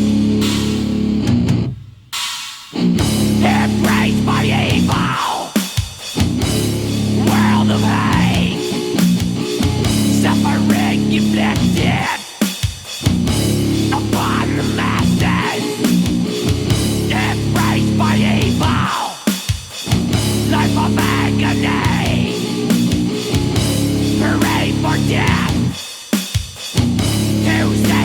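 Instrumental death metal from a 1990s tape recording: distorted guitar riffing with drums, broken by short stops and restarts every few seconds.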